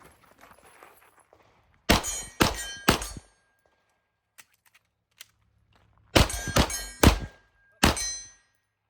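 Pistol shots: three quick shots about two seconds in, then after a pause of about three seconds for a magazine reload, another string of shots.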